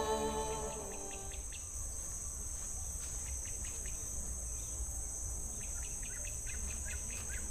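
Insects chirring steadily at a high pitch, with a few short chirps coming and going and a low rumble underneath.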